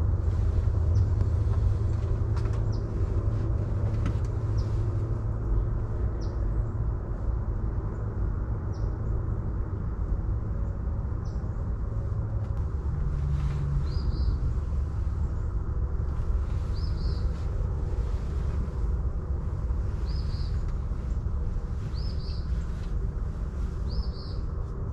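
Steady low rumble of outdoor background noise. From about halfway in, a bird gives short, high single chirps every second or two.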